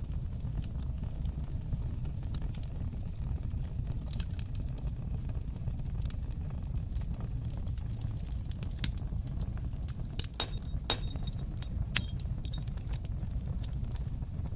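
Fire in a fireplace crackling: sharp pops and snaps scattered over a steady low rumble of the flames, with a flurry of pops about two-thirds of the way through and one loud pop shortly after.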